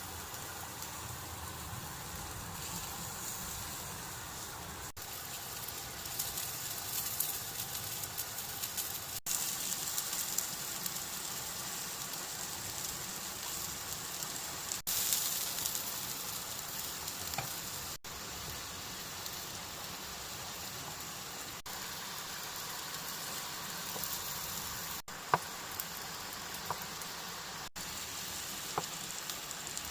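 Heavy rain falling: a steady hiss with scattered drop ticks.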